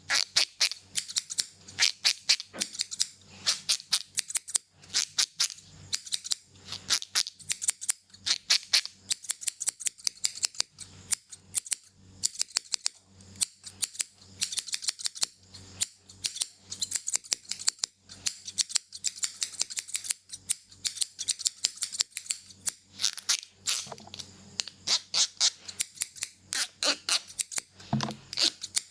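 Metal hair-cutting scissors snipping rapidly and repeatedly, a fast run of sharp crisp snips, several a second, with only brief pauses.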